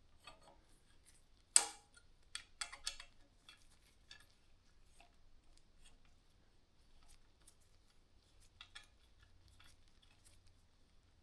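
Light metallic clicks and taps of a tool on bicycle handlebar and stem parts while the clamp bolt is done up, with one sharp click about a second and a half in and a quick run of clicks soon after.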